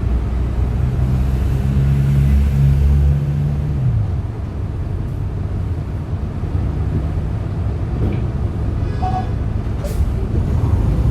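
Hyundai Green City CNG city bus's natural-gas engine running under way with road rumble; its steady engine note drops in pitch about four seconds in as the engine eases off. A few light clicks and a short sharp sound come near the end.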